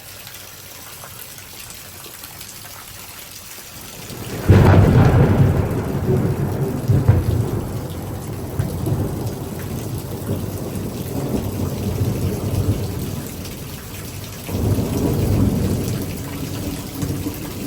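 Steady heavy rain, then about four and a half seconds in a sudden loud thunderclap from nearby lightning that rolls on as a low rumble for several seconds. A second rumble of thunder swells up about fourteen and a half seconds in.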